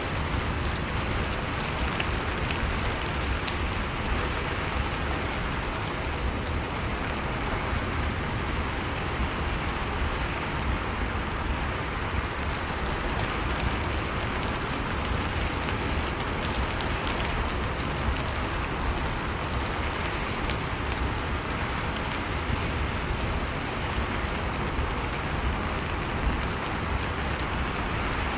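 Steady rain falling, an even, unbroken patter of drops.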